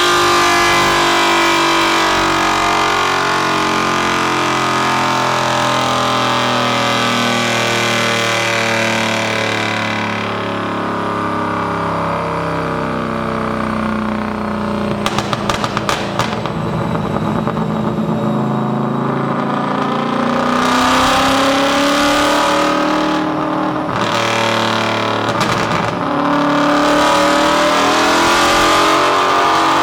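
Widebody Chevrolet Camaro's engine on a dyno, its pitch falling steadily as the revs come down, then a quick string of exhaust crackles midway. The engine then revs back up in a rising pull near the end.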